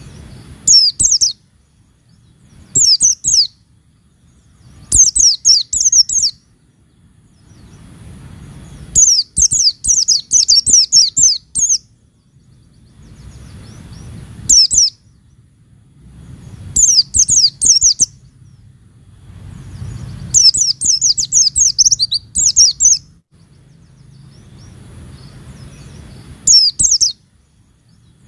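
A white-eye (pleci) sings in about eight bursts of rapid, high twittering. Some bursts are short, while others last two to three seconds. Between bursts there is only a faint low background noise.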